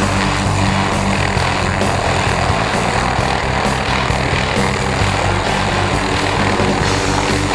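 Police helicopter running close by: loud, steady rotor and engine noise with a faint regular pulsing.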